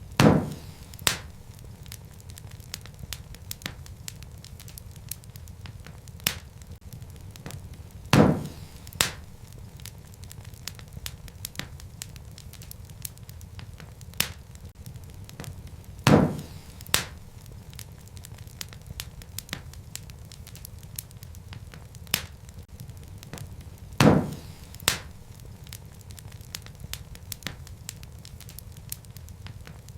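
Wood fire crackling over a steady low rumble, with many small ticks and a loud pop about every eight seconds, each followed by a smaller pop about a second later.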